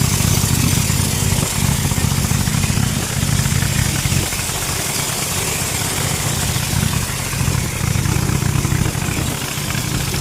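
Speedboat engine running steadily, its low hum swelling and easing a little, under a steady hiss.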